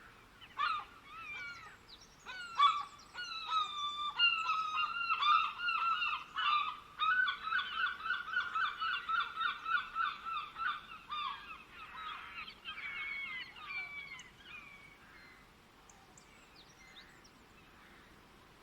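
Birds calling in many short, pitched notes. The calls pick up into a fast, dense run of repeated notes in the middle, then die away about three-quarters of the way through, leaving only faint scattered calls.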